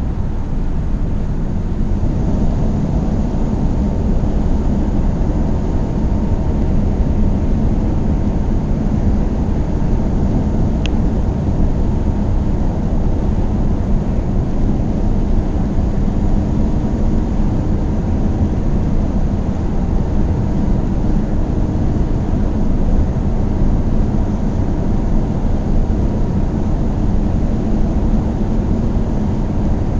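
Car driving steadily on the road: a constant low rumble of tyre and road noise with the engine's hum, and a faint tick about eleven seconds in.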